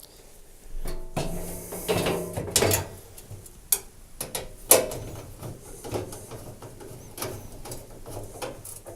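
A tumble dryer's front panel being handled and fitted back into place, with scraping and a series of sharp clicks and knocks.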